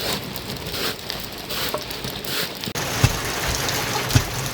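Rain falling steadily. About two-thirds of the way through the sound of it changes abruptly, and two sharp knocks follow.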